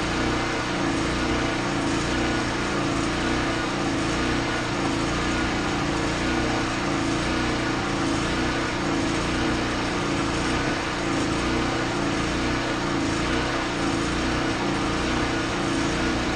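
A small engine running steadily at an even speed, with no change throughout.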